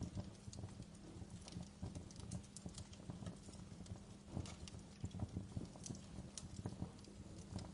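Crackling fireplace: faint, irregular snaps and pops of burning wood over a steady low rumble.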